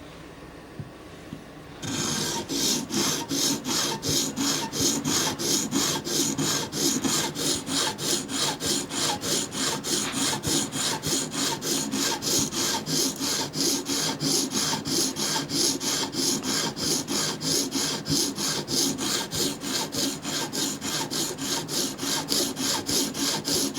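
Coarse 80-grit CBN stone on a Hapstone guided sharpener scraping back and forth along the steel edge of a tanto knife blade. It starts about two seconds in and keeps an even rhythm of about three strokes a second.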